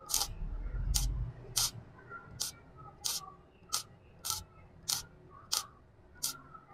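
MIG welder tack-welding thin sheet steel in short arc pulses: about eleven brief crackling bursts, one roughly every 0.6 seconds, with a low rumble under the first second. Stitching in short tacks like this keeps the thin sheet from burning through.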